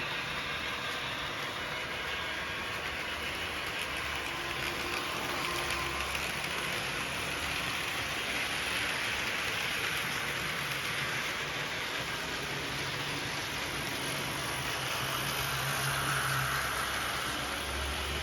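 HO-scale model train running on the layout track: a steady whir and rumble of its motor and wheels on the rails, growing a little louder twice as it passes.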